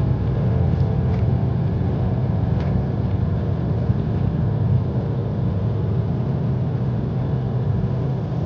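Steady low rumble of a private jet heard from inside the cabin while it lands.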